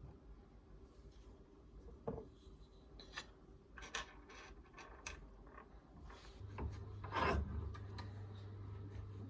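Intermittent hand rubbing and scraping strokes on a workpiece, with a few sharp knocks; the loudest scrape comes about seven seconds in. A low steady hum starts about six and a half seconds in.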